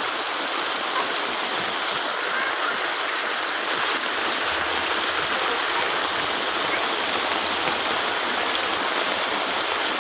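Heavy rain falling, a steady dense hiss of water.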